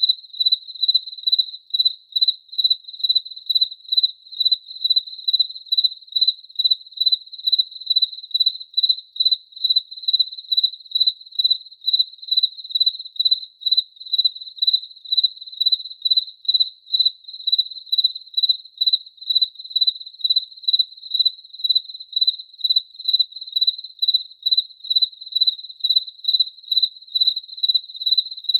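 A cricket chirping at a steady high pitch, in an even rhythm of about two chirps a second.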